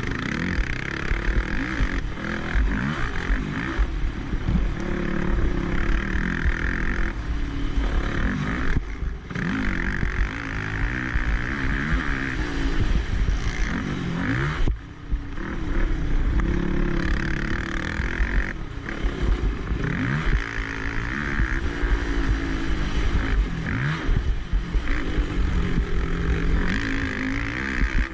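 Motocross quad engine revving hard and falling back again and again, with a heavy low rumble underneath. The engine sound dips briefly about nine seconds in and again about fifteen seconds in.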